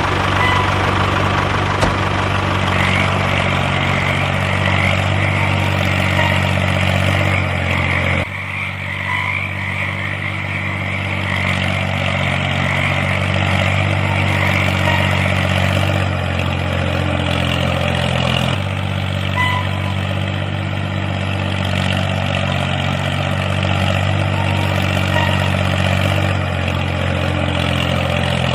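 Small engine of a homemade mini tractor running steadily at idle. The sound shifts abruptly a few times, about 8, 16, 18 and 26 seconds in.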